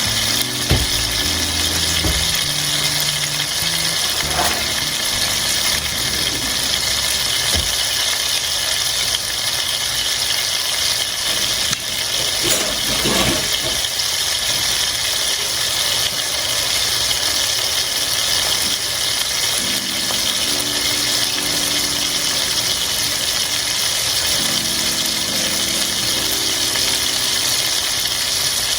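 Chicken pieces sizzling steadily as they sear in hot oil in a pan, with a couple of brief knocks of utensil or pan.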